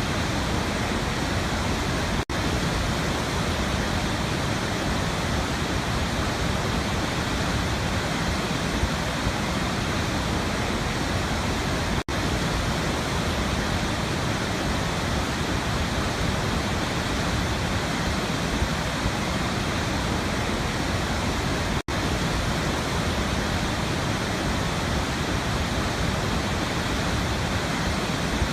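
Waterfall: a steady, full rush of falling water that cuts out for an instant three times, about ten seconds apart.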